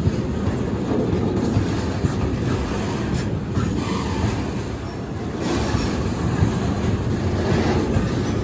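A train passing at close range: a steady, loud rumble of wheels running on the rails.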